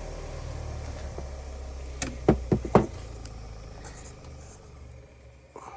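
A wire wheel's electric motor hums steadily and fades away. Three or four sharp knocks come about two seconds in.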